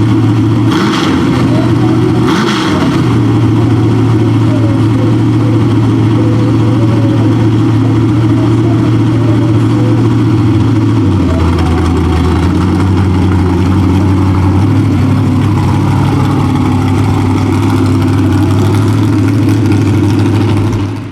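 Big-block V8 mud truck engine idling loudly and steadily, blipped twice on the throttle in the first few seconds. About halfway through, the engine note drops to a lower, rougher idle.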